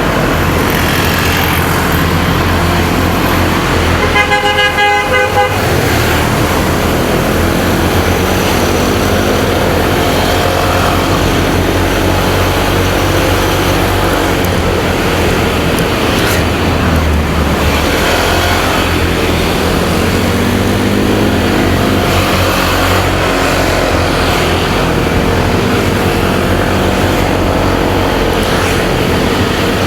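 Motorcycle riding through traffic: a steady run of engine, wind and road noise. About four seconds in, a vehicle horn sounds for roughly a second and a half.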